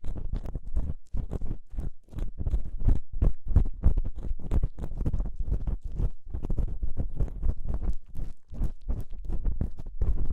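Ear-cleaning tool scraping and rubbing inside a binaural microphone's ear, in quick strokes several times a second with no pauses.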